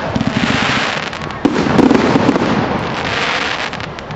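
Fireworks going off: a dense run of crackles and rapid pops over a steady hiss, with a sudden louder bang about a second and a half in.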